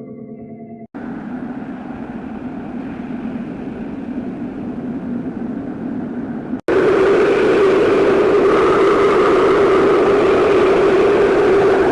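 Harsh, noisy electronic drone from an effect-processed logo soundtrack, with no clear melody. About a second in it cuts in as a low rumble, and about six and a half seconds in it cuts abruptly to a louder, brighter drone.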